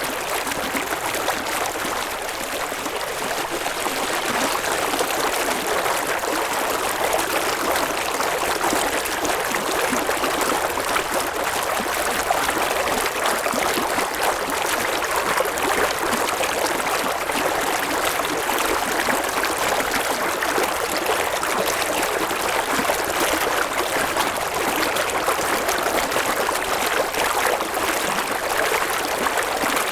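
River water flowing over rocks, a steady rushing and babbling that holds even throughout.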